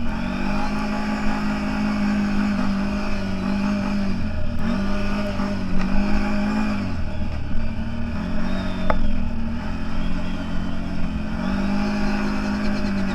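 CFMoto 1000 off-road vehicle's engine running under way, its engine speed dropping and picking up again about three times as the throttle is eased and reapplied.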